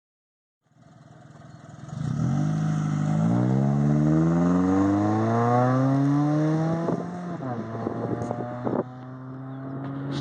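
2008 Mitsubishi Eclipse's 2.4-litre four-cylinder (4G69) engine through a stock exhaust with the muffler removed, pulling away: the note climbs in pitch, dips briefly about three seconds in and climbs again, then drops to a steady lower drone about seven seconds in as the driver eases off.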